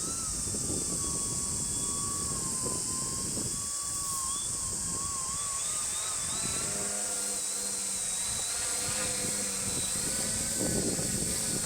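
Electric RC aerobatic plane's brushless motor and propeller whining, the pitch wavering and gliding up and down as the throttle changes, with uneven wind rumble on the microphone.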